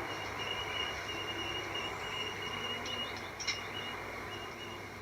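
Steady high-pitched insect trill with a pulsing beat, over a low outdoor hiss, and a single short click about three and a half seconds in.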